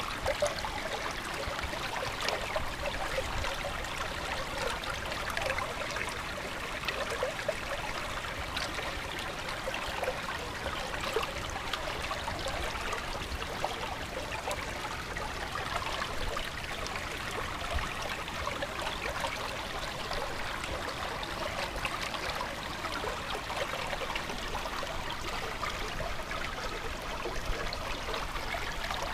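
Running water of a small stream, trickling and babbling steadily.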